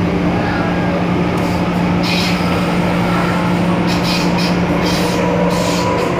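MTR M-Train electric multiple unit running between stations: a steady low rumble of wheels on track under a constant motor hum, with brief hissing now and then.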